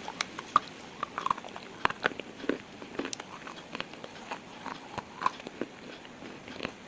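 Pieces of slate being crunched: a string of irregular sharp crunches and snaps, one to three a second, over a low steady hiss.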